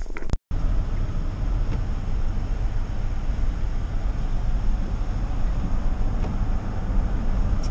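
Steady low rumble of a car driving, road and engine noise heard from inside the cabin. It starts after a brief cut in the sound about half a second in.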